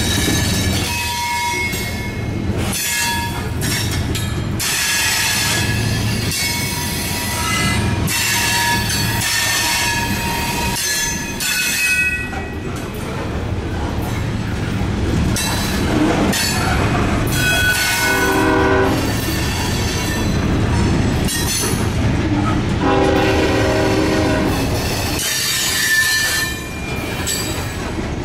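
Loaded covered hopper cars of a freight train rolling past: a steady rumble of wheels, with clicks over the rail joints and the flanges squealing in high steady tones. Two brief chords of several tones sound about 18 and 23 seconds in.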